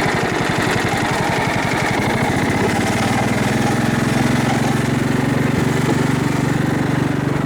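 Craftsman riding lawnmower engine running under load while towing another mower up a steep hill. About three seconds in the engine note settles into a steadier, fuller hum.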